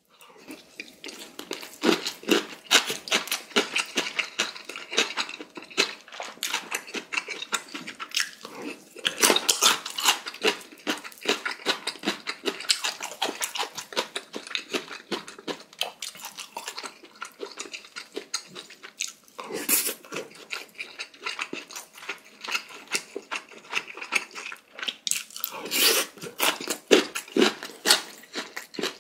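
Close-miked chewing of cubed radish kimchi (kkakdugi) with pork: a dense run of wet crunches and mouth clicks, with a few louder, longer mouth sounds now and then.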